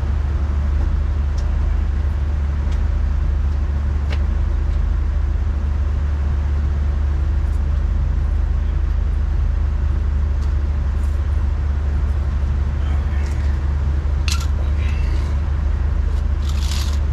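Truck engine idling steadily with a low drone, with a few sharp clicks of tools on the brake hardware, more of them near the end.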